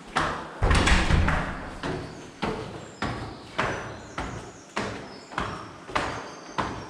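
Footsteps walking at a steady pace, a little under two steps a second, with a heavier thud about a second in.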